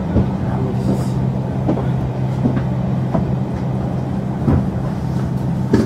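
Steady low hum of a Berlin S-Bahn train standing at the platform, heard from inside the carriage, with a few light knocks and clicks.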